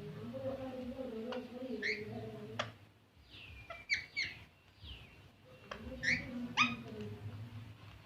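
A green parrot calling in short, sharp, shrill squawks, a few at a time, with a low hum underneath that drops out for a couple of seconds midway.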